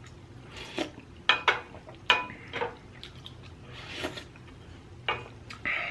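Eating utensils clinking and tapping against a dish, about eight short separate clicks, some with a brief ring.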